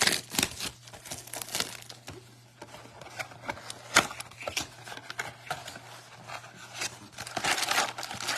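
Plastic wrapping crinkling and tearing as a trading-card blaster box is opened, with one sharp snap about four seconds in and denser crinkling near the end.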